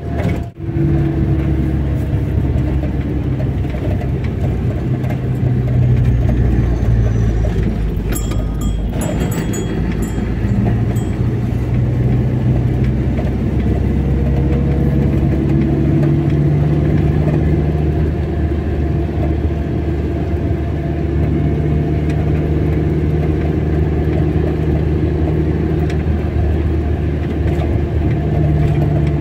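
Car engine running steadily with road and tyre noise while driving, its pitch drifting up and down slightly as the speed changes. A brief dropout comes right at the start.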